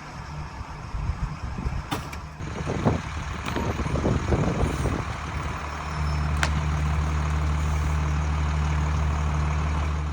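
FMTV military truck's diesel engine running under load, with a run of sharp cracks and snaps about two to five seconds in; from about six seconds the engine note becomes louder and steady.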